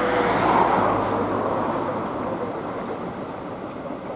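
Jet noise from an Airbus A320neo airliner, a broad rushing roar that swells to a peak about half a second in and then fades steadily.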